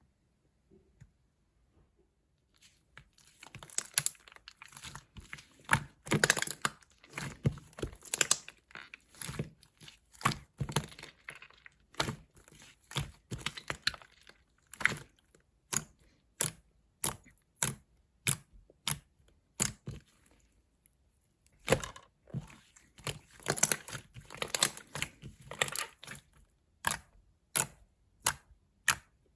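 White clear slime being squished and stretched by hand, giving wet crackling and squelching. It starts about two seconds in, and the crackling later gives way to a series of single sticky pops, about one a second, then quicker near the end.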